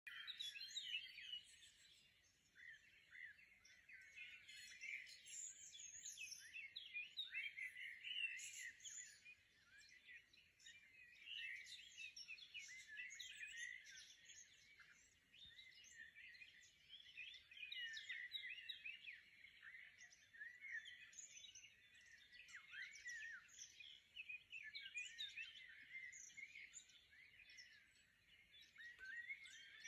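Faint chirping of several small birds, a busy run of short calls overlapping one another without a pause.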